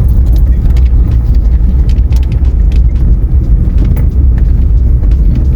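Car driving slowly over a rough, stony dirt road: a steady low rumble of tyres and suspension, with many small rattles and knocks from stones under the wheels.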